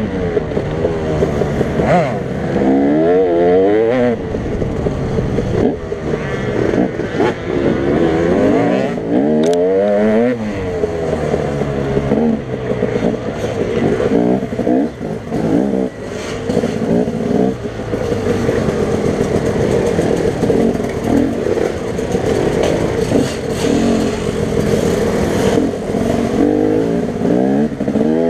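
Enduro dirt bike engine heard from on the bike, revving up and down over and over as the rider accelerates and backs off along the trail.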